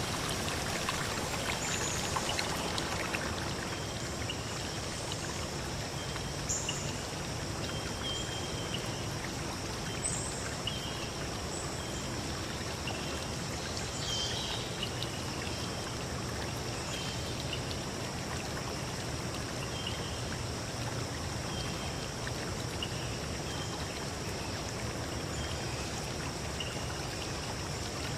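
Forest river stream flowing steadily, a constant even rush of water. Short high bird chirps come and go over it now and then.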